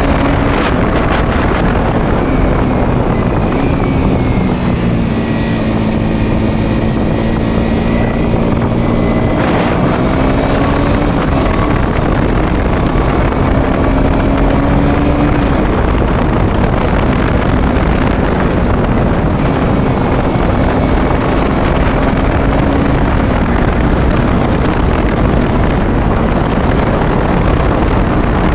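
Motorcycle engine running on the move under heavy wind noise on the microphone, its pitch dipping a few seconds in and climbing back over the following seconds as the speed changes.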